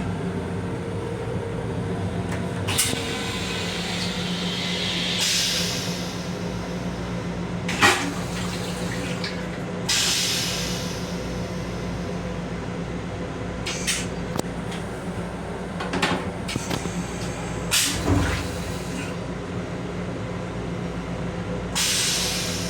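Steady hum of a moving M7 electric railcar heard from inside its restroom, broken by several sharp knocks and clacks and by bursts of hissing rush, the longest lasting about three seconds near the start.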